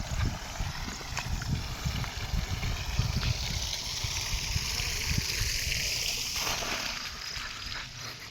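Wind buffeting the microphone in gusts. A broad rushing hiss swells about three seconds in and fades away near the end.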